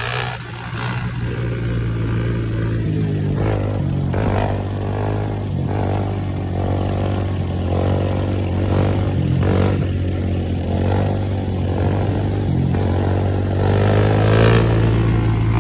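Dirt bike engines running and revving, over a steady low engine drone, with the pitch rising and falling again and again.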